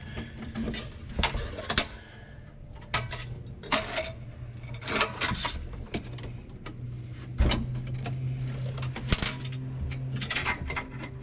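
Irregular small metal clicks and scrapes of stainless safety wire and safety wire pliers being handled and twisted by hand, with a low steady hum from about halfway.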